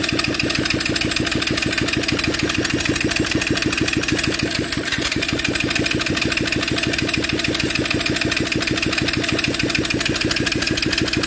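Bajaj Discover 135's single-cylinder engine idling steadily with an even, rapid pulse.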